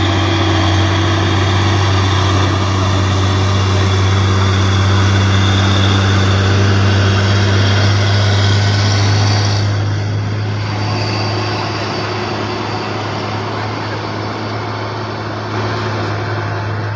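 Heavy truck's diesel engine running steadily with a strong low hum, easing a little about ten seconds in.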